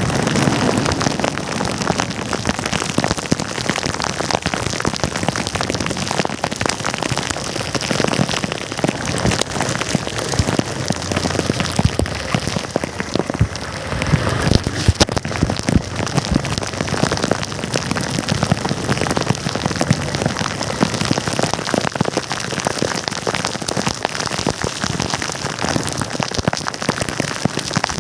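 Heavy rain, a dense steady patter of drops hitting close by, with many sharp individual drop impacts.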